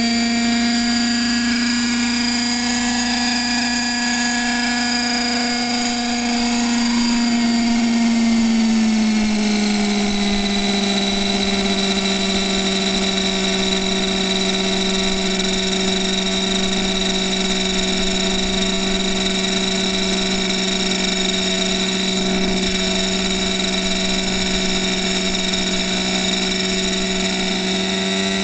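Radio-controlled model helicopter running: a steady motor and rotor whine that drops slightly in pitch about a third of the way in, holds, then rises a little near the end.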